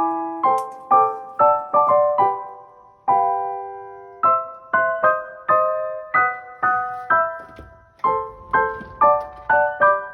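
Background piano music: a light melody of struck notes, each fading away, with a longer held note about three seconds in and a brief lull near eight seconds.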